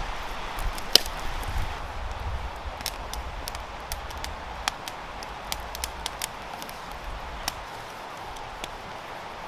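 Campfire crackling: a steady hiss with irregular sharp pops and snaps, the loudest about a second in.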